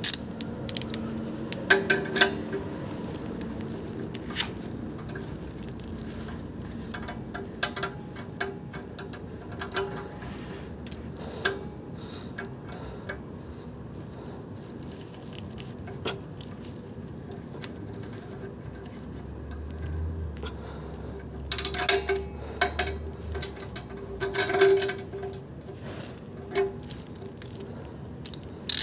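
Scattered metallic clicks and clinks of hand tools against metal parts in a car's engine bay, coming in short clusters with gaps between.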